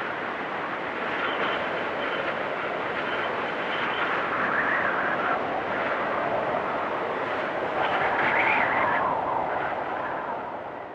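Wind storm blowing in gusts, with a high whistling that rises and falls. It swells about four and eight seconds in, then fades near the end.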